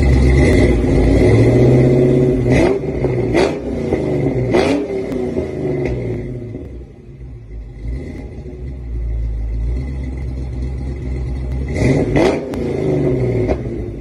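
Supercharged, hot-cammed 1993 Ford Mustang SVT Cobra 5.0-litre V8 idling through a full exhaust. It is revved in quick blips, three of them a few seconds in and more near the end, and settles back to idle between them.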